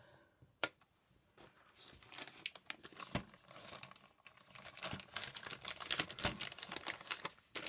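Crinkling and rustling of packaging being handled, a rapid run of small crackles that starts about a second and a half in, with a couple of light knocks before it.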